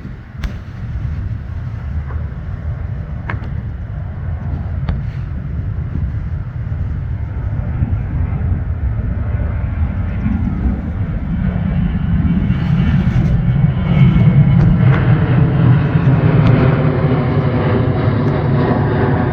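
Jet airliner flying low overhead, its engine noise building steadily louder and loudest in the last few seconds, with sweeping shifts in pitch as it passes.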